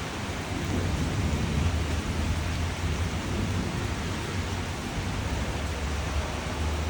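Steady rain falling, an even hiss with a low rumble underneath that swells and fades.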